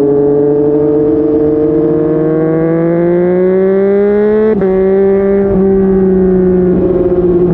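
Yamaha MT-09's inline three-cylinder engine through a Yoshimura R55 slip-on exhaust, under way and climbing steadily in revs for about four and a half seconds, then dropping sharply at a gear change and running on at a roughly steady pitch.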